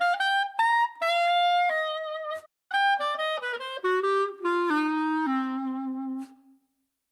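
A solo wind instrument plays a short melody of single notes, with a brief pause about two and a half seconds in. The second phrase steps downward and ends on a long, low held note.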